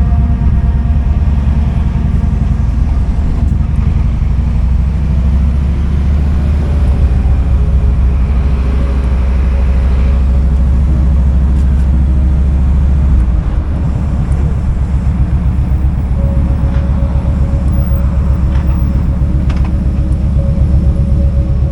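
Kawasaki Vulcan 2000's 2,053 cc V-twin engine running with a steady, low pulsing note; about thirteen seconds in the deepest part of the sound drops away and the engine carries on slightly lighter.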